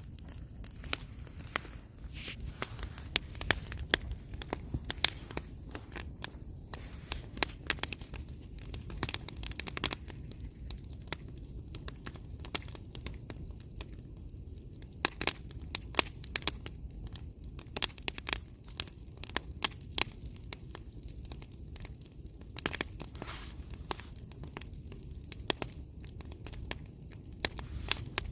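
Wood bonfire crackling, with frequent irregular sharp pops and snaps over a steady low rumble.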